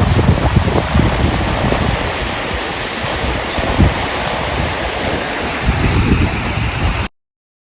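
River water rushing, with gusty wind buffeting the microphone. The sound cuts off abruptly near the end.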